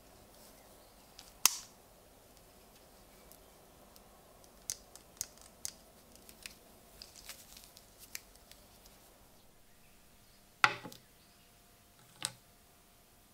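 Folding pocket knife blade being worked open and shut, its back spring clicking. One sharp snap comes early, a run of small light clicks follows in the middle, and two loud snaps come near the end, the first with a short metallic ring.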